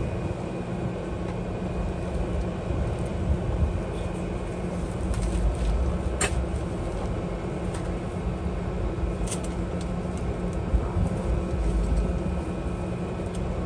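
A power tool cutting through a steel exhaust pipe, running steadily with a couple of sharp clicks.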